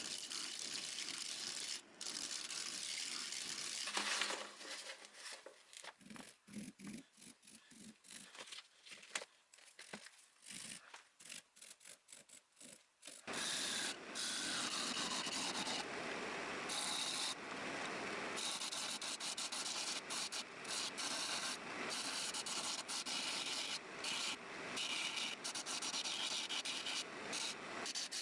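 Sanding of old wood: separate rubbing strokes for a while, then nearly continuous rubbing from about halfway through.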